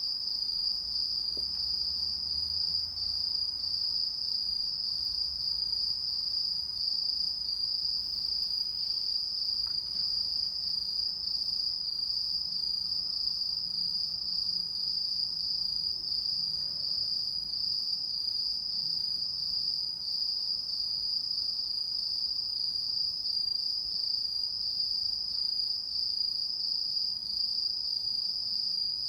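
Insects singing in a continuous, steady high-pitched trill with a fine rapid pulse, unbroken throughout.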